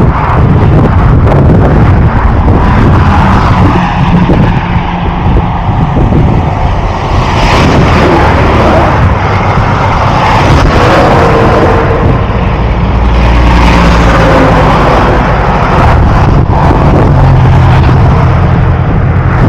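Loud, steady vehicle running noise, a low rumble with engine and road noise.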